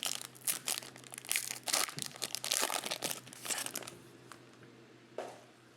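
A trading-card pack wrapper being torn open and crinkled by hand, a dense run of crackling for about four seconds that then dies down, with one last short crinkle near the end.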